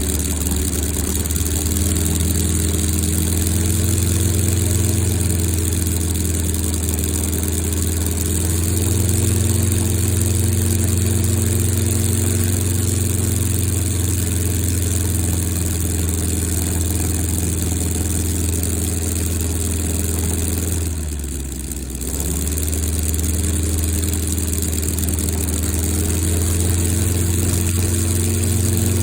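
Model five-cylinder UML-160 rotary engine on methanol glow fuel, running steadily and turning a large propeller. About 21 seconds in, it is throttled back briefly, the pitch and loudness dropping, then it picks up again.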